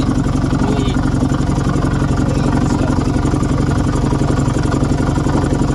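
Boat motor running steadily with a fast, even putter.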